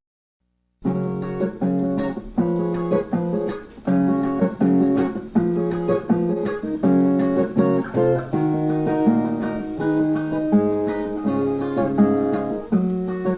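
Brazilian viola played alone, plucking a melody of single notes mixed with strums at a steady pace. It starts after a moment of dead silence at the very beginning.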